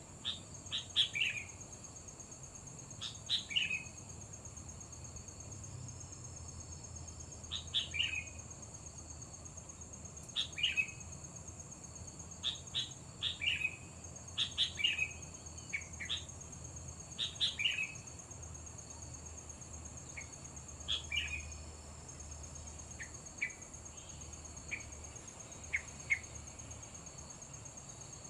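Sooty-headed bulbul (kutilang) calls: short, quick falling chirp phrases repeated every second or two, over a steady high-pitched insect drone.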